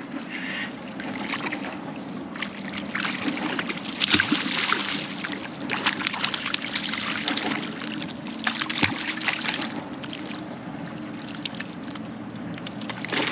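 Water splashing and sloshing in several irregular bursts as a hooked banjo shark is being unhooked, over a steady low hum.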